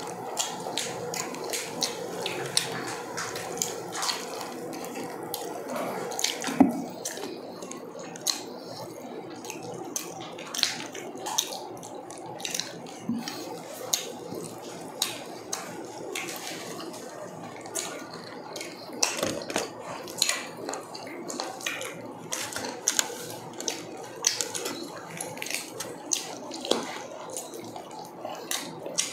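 Close-up wet chewing and lip-smacking of two people eating roast chicken and grilled pork by hand, in many irregular sharp clicks, with the occasional tearing of meat.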